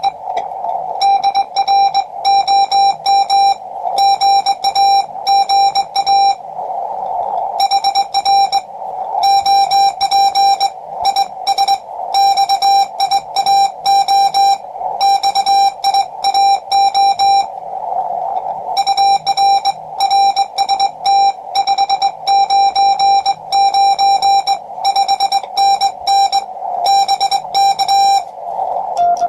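Morse code sent with a Vibroplex Lightning Bug semi-automatic key through a QRP Labs QCX-20 transceiver: a steady, buzzy beep of about 800 Hz keyed on and off in quick dots and longer dashes. Between the words, narrow receiver hiss at the same pitch fills the gaps.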